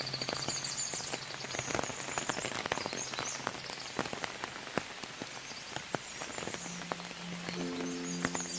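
Rain falling, with many separate drops tapping close by over a steady patter. Soft background music comes in near the end.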